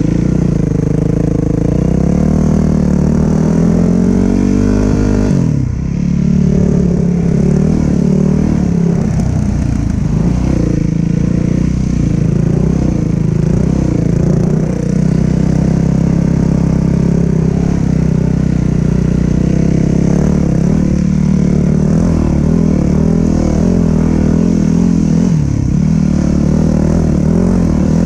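Dirt bike engine pulling away, rising in pitch for the first five seconds, dipping briefly about five and a half seconds in, then running at riding speed with the throttle rising and easing off.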